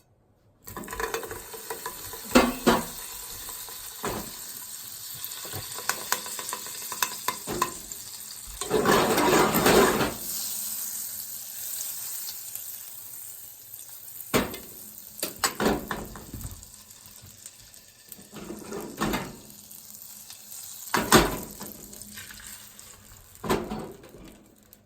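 Beaten eggs sizzling in a non-stick frying pan, the sizzle starting about a second in, with repeated knocks and clatter of cooking chopsticks stirring and the pan being worked, loudest about ten seconds in.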